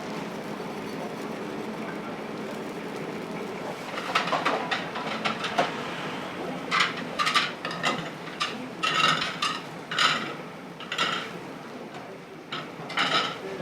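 Food sizzling on an iron griddle, then from about four seconds in, metal spatulas striking and scraping the griddle in a quick, ringing rhythm.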